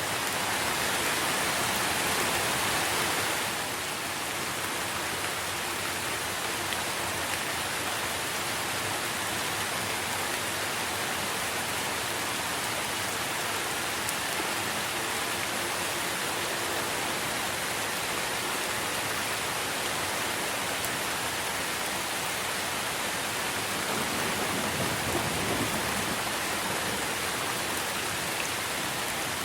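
Steady rain falling on tree foliage, a continuous hiss that is a little heavier for the first few seconds. A brief low rumble of distant thunder comes near the end.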